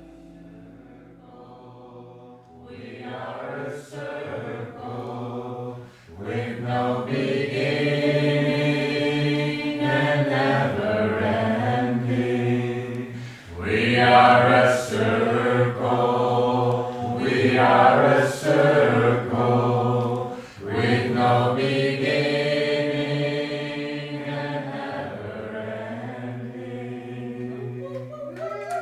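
Voices singing a slow chant together, long held notes that shift every few seconds and swell after the first few seconds.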